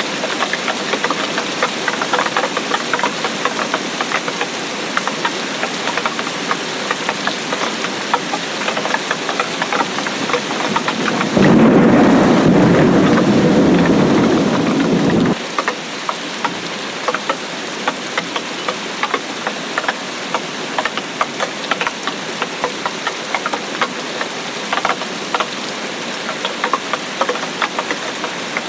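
Steady rain with many individual drops ticking close by. About eleven seconds in, a rumble of thunder rises over it for about four seconds and then cuts off abruptly.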